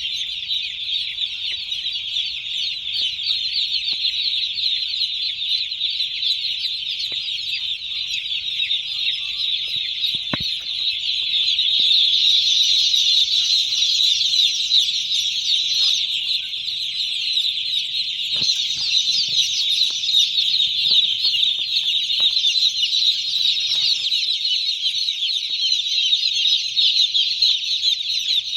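A flock of chickens in a poultry farm calling together in a dense, continuous high-pitched chorus, growing louder about twelve seconds in.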